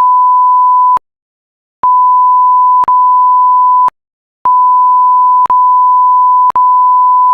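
A steady electronic beep at about 1 kHz from a weather radio broadcast, sounded three times with short gaps: first about one second long, then about two seconds, then about three seconds. Each beep starts and stops with a sharp click, and a click also falls about every second inside the longer beeps.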